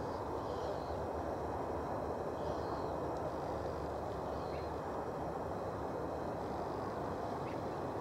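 Steady outdoor background hiss with a few faint, short bird calls scattered through it.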